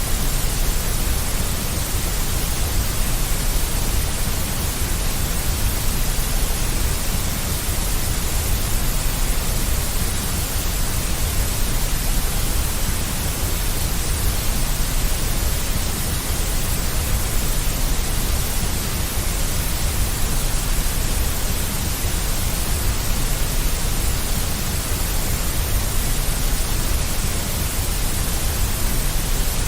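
Steady, unchanging deep white noise, with extra weight in the low rumble, as played to soothe a baby to sleep.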